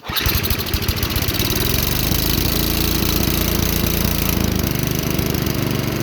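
A Tecumseh 5 hp HSSK50 single-cylinder four-stroke engine on a snowblower catches on the pull-start with the choke on, then runs steadily. Its note shifts about four and a half seconds in. The engine runs out well.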